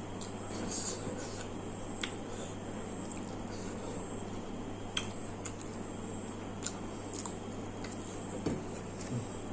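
A few sharp, isolated clicks and taps of dishes or utensils over a steady low hum of room tone.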